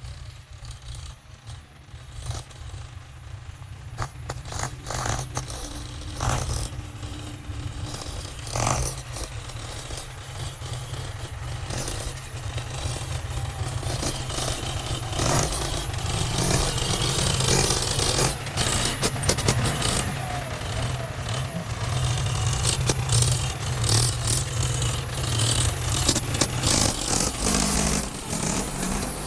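Heavy earthmoving machine's engine running, with frequent metal clanks and scraping sounds, growing louder over the first half.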